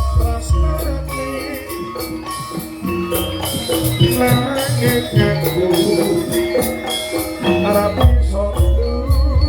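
Jaranan gamelan music playing: metallic pitched percussion carrying a melody over drumming, with rapid rattling shaken percussion and heavy low strokes near the start and again near the end.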